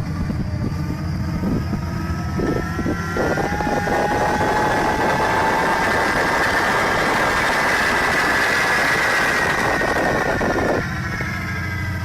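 Jet engine on a rail vehicle running, a rising turbine whine over a low hum. From about three seconds in, a loud rushing roar joins the whine and then cuts off suddenly near the end.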